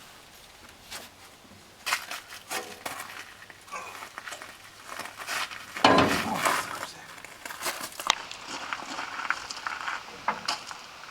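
Irregular knocks, clanks and scraping from hands-on work on a crane's hydraulic cylinder, loudest about six seconds in.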